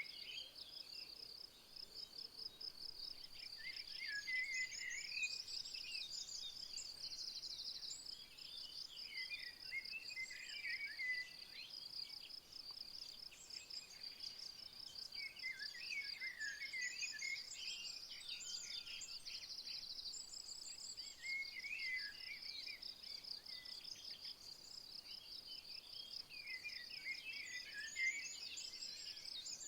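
Steady, high-pitched insect chirring, like crickets or bush-crickets, with a songbird singing short phrases about every five to six seconds.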